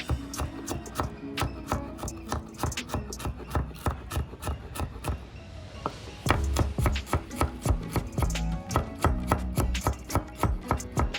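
A knife chopping food on a cutting board in quick, irregular strokes, over background music that grows fuller about six seconds in.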